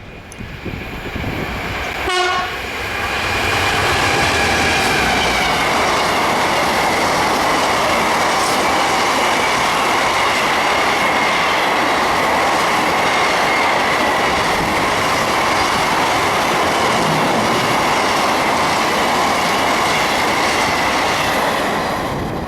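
A train passing through a station at speed: a loud, steady run of wheels on rails lasting nearly twenty seconds, with a steady high whine over it, then fading away near the end. A brief sharp sound comes about two seconds in.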